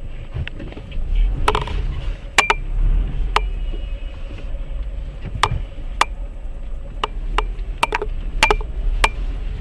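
Low, steady rumble of a moving car with road noise, broken by a dozen or so irregular sharp clicks and knocks.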